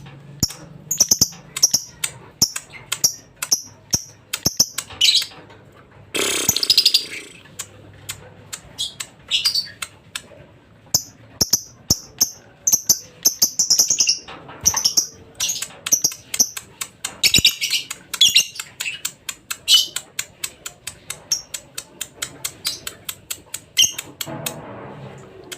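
Lovebird singing: a rapid, unbroken run of sharp high chirps and clicks, with a longer buzzy trill about six seconds in.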